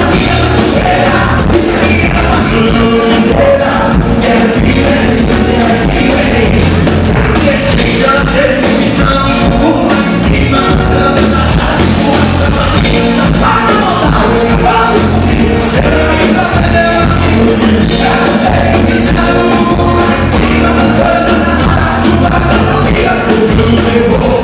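Live band music played loud at a dance, with a male lead vocal singing over bass, drums and keyboards with a steady beat.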